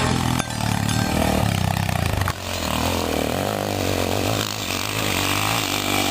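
Motocross bike engines revving, their pitch rising and falling, with an abrupt change about two seconds in.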